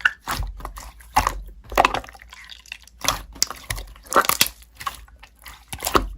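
Crunchy slime being pressed and squeezed, giving irregular sharp crackles and crunches.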